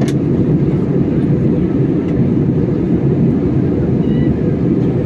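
Airliner cabin noise on approach to landing: a steady low roar of engines and airflow, with a single click just at the start.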